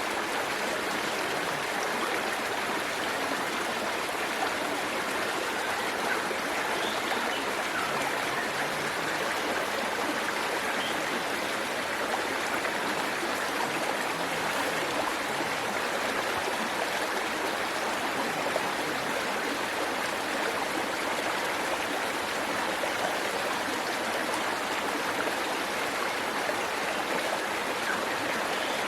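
Waterfall, its water rushing steadily and evenly without a break.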